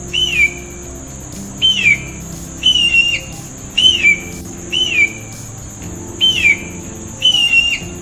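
A hawk calling: seven short whistled calls, about one a second, each sliding down in pitch. A thin, steady high-pitched tone runs underneath.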